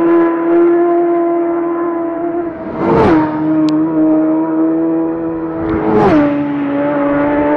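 Superbike racing motorcycles going past flat out: two close pass-bys, about three and six seconds in, each with a sharp drop in pitch as the bike goes by. A steady high engine note hangs on between them.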